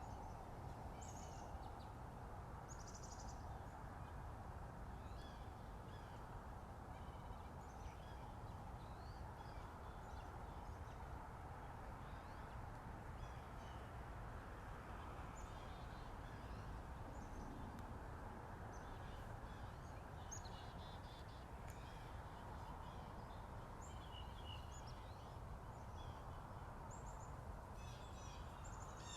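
Morning bird song: several birds give short, scattered chirps and trills on and off throughout, over a steady low background rush.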